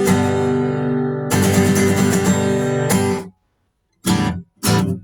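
Acoustic guitar strumming the closing chords of a song: a few ringing strummed chords that are cut off sharply a little over three seconds in, then two short, clipped strums.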